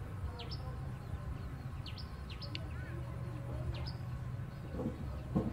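Small bird's short, high chirps, each sweeping quickly downward, about half a dozen scattered through, over a steady low background rumble. A short, louder, lower-pitched sound comes near the end.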